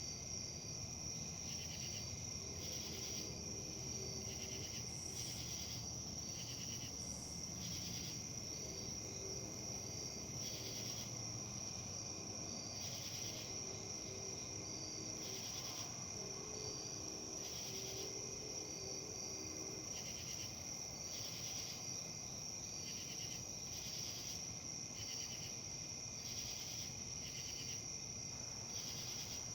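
Insects, crickets or similar, chirping: a steady high-pitched trill with rhythmic chirps repeating about once a second.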